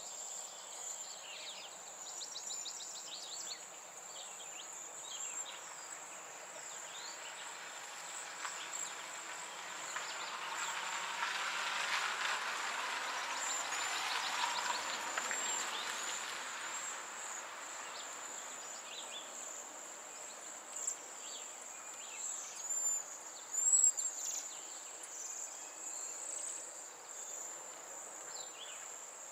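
Outdoor ambience led by a steady, high-pitched insect trill, like crickets. A broad rushing noise swells and fades in the middle, and a few short bird chirps come in near the end.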